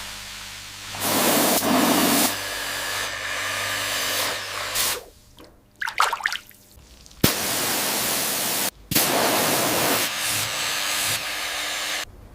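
A power tool with a motor hum and a steady hiss, run in several bursts that start and stop abruptly, with short breaks between them.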